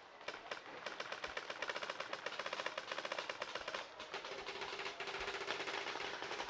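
Paintball markers firing rapid strings of shots, several at once, so the pops run together into a near-continuous rattle. A faint steady tone joins in about two-thirds of the way through.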